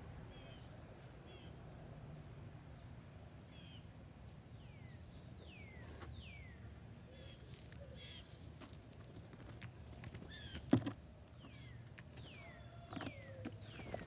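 Garden birds calling: short, clipped calls repeated at intervals, mixed with whistled calls that fall in pitch. A single sudden loud knock about eleven seconds in.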